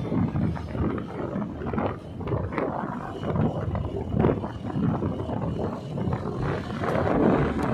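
Wind buffeting the microphone on a moving motorcycle: a rough, gusty rumble with road noise.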